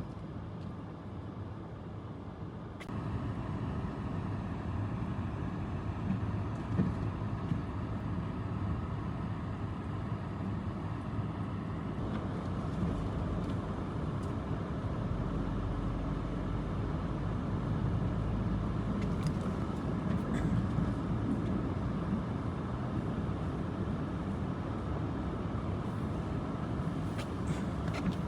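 Steady low rumble of a running vehicle, engine and road noise, which steps up slightly a few seconds in and then holds even.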